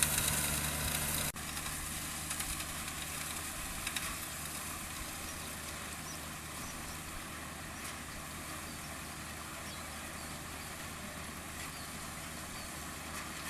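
Kubota DC-35 combine harvester's diesel engine idling steadily, with a hiss over the low hum. The sound drops out and changes abruptly about a second in.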